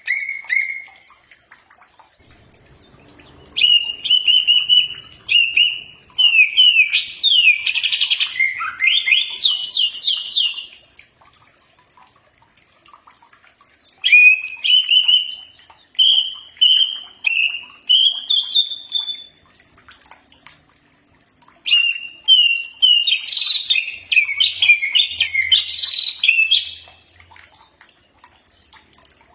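Cucak ijo (greater green leafbird) singing in bouts of loud whistled phrases, with notes sliding up and down and quick trills. Three long bouts are separated by pauses of a few seconds.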